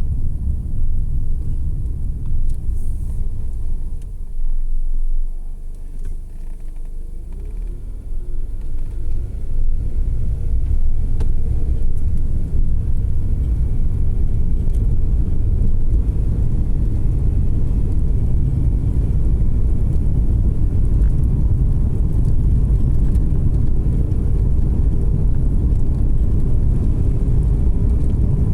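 Car road noise: engine and tyres rumbling low and steady. It eases off for a few seconds about four seconds in, then builds back up and holds.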